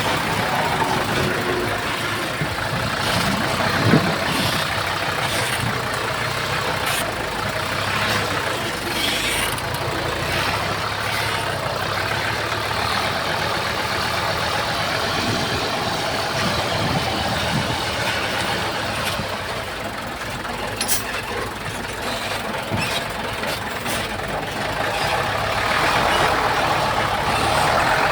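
Heavy diesel earthmoving machinery, a bulldozer or dump truck, running steadily, with a few short metallic clanks mixed in.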